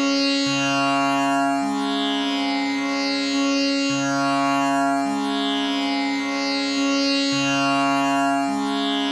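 Tanpura drone tuned to C sharp, its strings plucked one after another in a repeating cycle, each note ringing on with a buzzing shimmer of overtones over a continuous hum.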